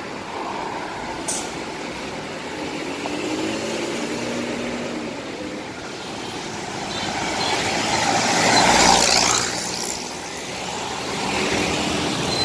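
Intercity bus engine running as a bus moves past, growing louder to a peak about eight to nine seconds in, then fading.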